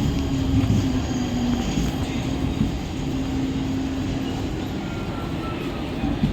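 Mumbai suburban local train running: a steady low rumble with a droning hum.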